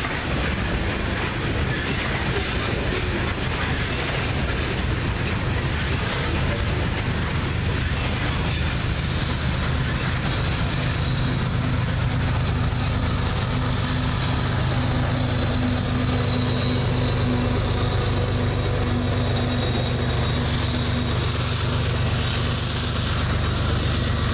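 Freight train of oil tank cars rolling past, with steady wheel and rail noise. About ten seconds in, the steady drone of a diesel locomotive engine joins in as the Canadian Pacific GE ES44AC distributed power unit comes by.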